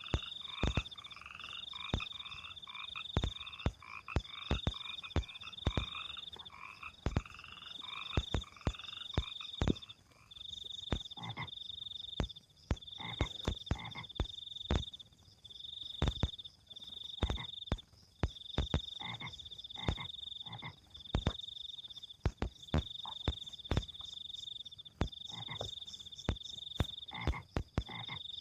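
Frogs calling: a high, even-pitched call repeating about once a second, joined for roughly the first ten seconds by a second, lower chattering call. Frequent sharp clicks sound among them.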